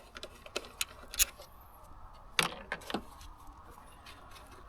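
Irregular sharp metallic clicks and clinks of hand tools and parts being handled in a car's engine bay, with the loudest knocks about a second in and again around two and a half seconds in.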